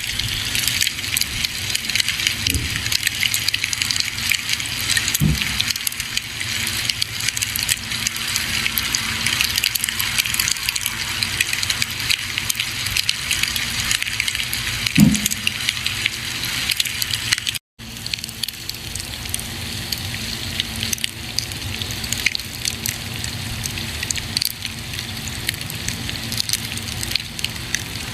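Campfire crackling: a steady hiss full of small, quick pops and snaps, with a few louder pops. The sound cuts out for an instant about two-thirds of the way through.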